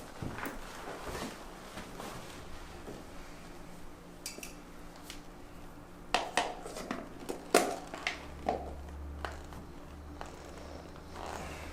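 A few sharp clicks and clinks of small hard objects being handled, grouped together a little past the middle, over faint rustling and a low hum.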